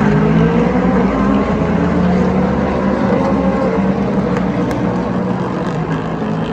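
Racing sports car engines running on the track, a loud steady drone with several engine tones that shift slightly in pitch.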